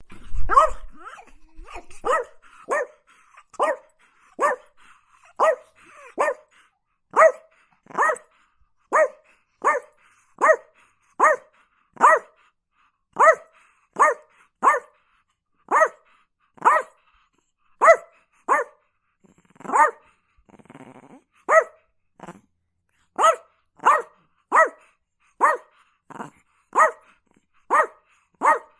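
Chihuahua barking over and over in short single barks, a little more than one a second, with a brief low rumbling sound about twenty seconds in.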